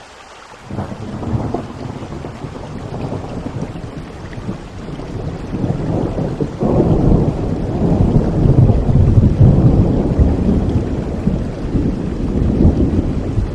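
Rain falling steadily, with a long roll of thunder that breaks in suddenly about a second in and rumbles on, swelling louder toward the middle.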